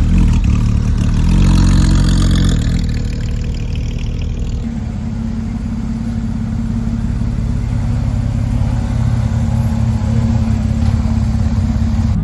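Porsche car engine running loud. It pulls harder with a rising pitch over the first three seconds, then drops back to a steady run.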